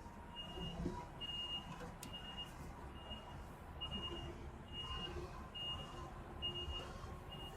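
Truck reversing alarm beeping, one steady high beep about once a second, over the low rumble of an idling truck engine; a single sharp click about two seconds in.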